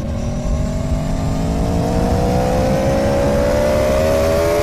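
Aprilia Tuono V4 motorcycle's V4 engine pulling hard under acceleration, its pitch rising steadily.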